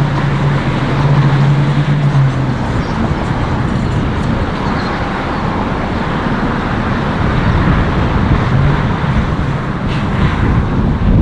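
Steady road traffic noise, with a low hum in the first two seconds or so and again briefly near the nine-second mark.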